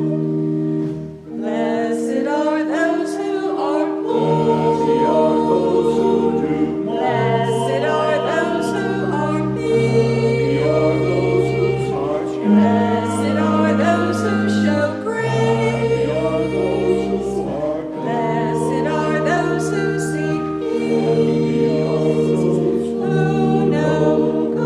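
A choir singing sacred music in several parts over long held low notes, with a short break about a second in.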